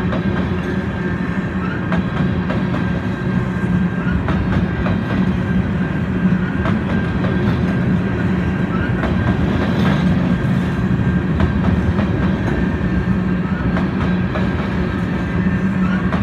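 Freight train of loaded open-top gondola cars rolling past close by: a steady rumble of steel wheels on rail with irregular clicks and clacks over the joints, and a thin steady high tone over it.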